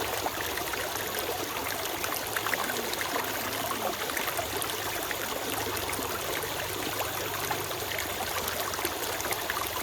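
Small forest stream flowing and trickling steadily over stones, with a continuous babble of water.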